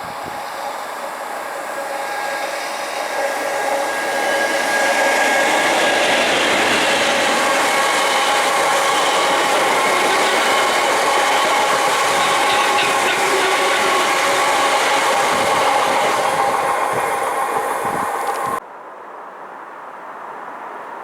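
A train passing at speed on a main line: the noise builds over the first few seconds and holds loud, with several steady whining tones over the rail noise. It cuts off suddenly near the end, leaving a quieter background.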